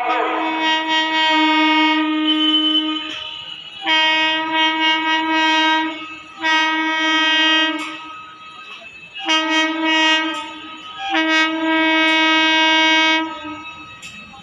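Indian Railways electric locomotive's horn sounding five blasts of one to three seconds each at a steady pitch, with short gaps between them; the first is the longest.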